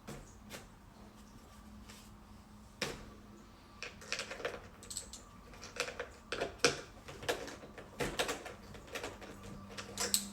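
Irregular clicks and small knocks of small plastic and metal parts being handled and fitted together, most likely while the RC plane's shock-absorbing landing gear is assembled. A few scattered clicks at first, then a busy run of them from about four seconds in.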